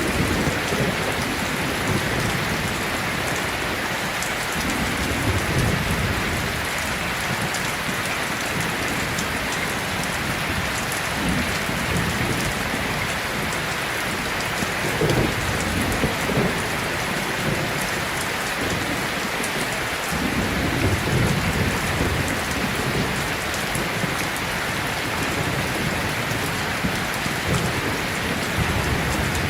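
Heavy rain falling steadily, with low rolls of distant thunder swelling and fading every few seconds.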